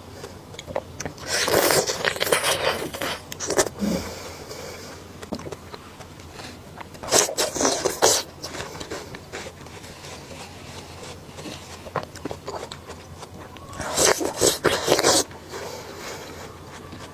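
Close-miked eating sounds: three spells of crisp biting and crunching a few seconds apart, with quieter chewing and mouth clicks between.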